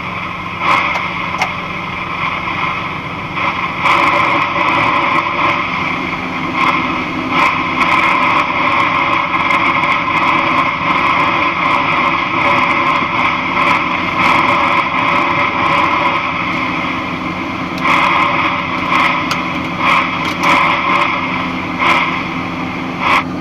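Steady drone of a box truck cab while driving: engine and road noise with a few brief swells.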